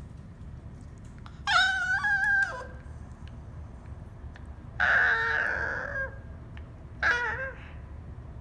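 A Cavalier King Charles spaniel whining three times, wanting out of its cage: a high whine that falls at its end, a longer breathier half-yawning whine, then a short whine that falls away.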